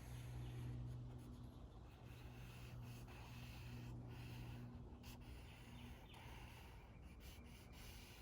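Felt-tip marker drawing a continuous line on sketchbook paper: faint scratching strokes with short pauses, over a low steady hum.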